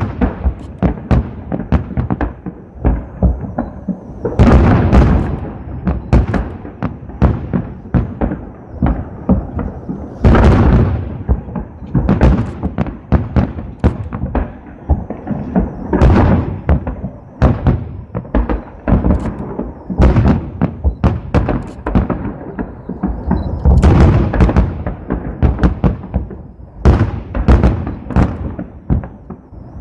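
Aerial fireworks shells bursting overhead in a continuous barrage of sharp bangs and deep booms, with heavier volleys every several seconds.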